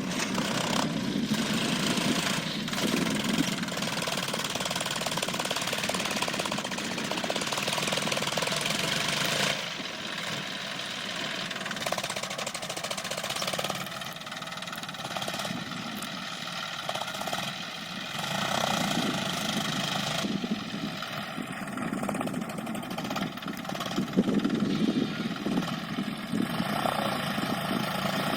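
John Deere 5050 E tractor's diesel engine running steadily during field work. It drops in level about a third of the way in and grows louder again in the second half.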